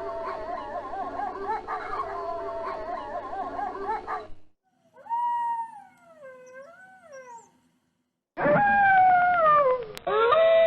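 Wolves howling: a chorus of several overlapping, wavering howls for about four seconds, then after a short break a single quieter howl rising and falling in pitch. After another break comes a loud howl sliding down in pitch, followed near the end by a long steady howl.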